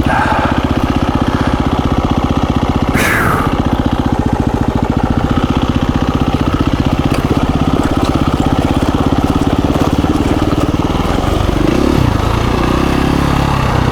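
KTM 350 EXC-F dirt bike's single-cylinder four-stroke engine running at low revs with steady, even firing pulses while crawling over rocky ground. A short hiss sweeps down about three seconds in, and the revs shift slightly near the end.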